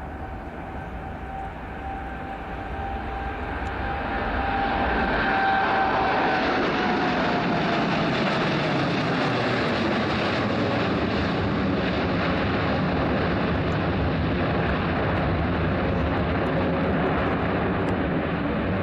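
Boeing 777X's twin GE9X turbofan engines at takeoff power: the roar swells over the first six seconds, a high whine drops slightly in pitch about six to eight seconds in, and the roar then holds steady.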